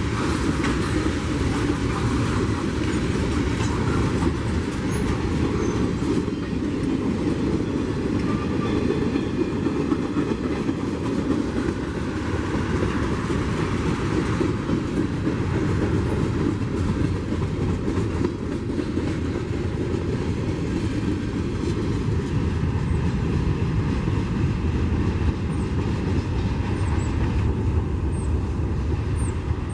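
Freight train cars rolling past on CSX track, a steady rumble of steel wheels on rail with scattered clicks from the rail joints.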